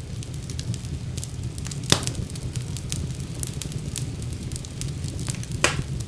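Fire in a fireplace crackling, with a steady low rumble of the flames and frequent small pops. Two louder pops snap out, about two seconds in and near the end.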